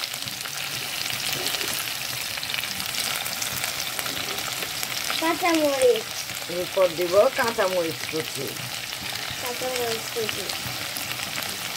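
Tomatoes and onions frying in oil in a pan, a steady sizzle. A few short bits of voice come in around the middle.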